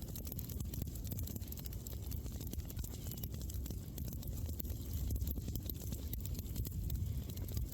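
Wood fire burning, with dense, irregular crackles and small pops over a low steady rumble.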